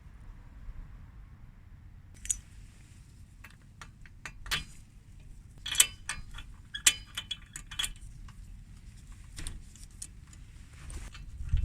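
Irregular metallic clicks and clinks of hand tools working on a Suzuki Colleda moped's two-stroke engine, taking it apart to check the spark plug. The clicks come singly or in small clusters, the sharpest about halfway through.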